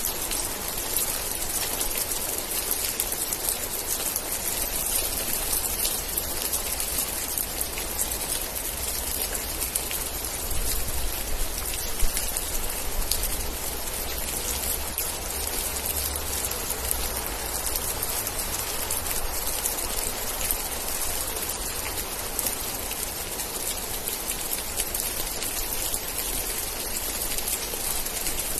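Steady rain: an even hiss of rainfall dotted with many fine drop ticks, with a low rumble that swells up from about a third of the way in and fades again near the middle.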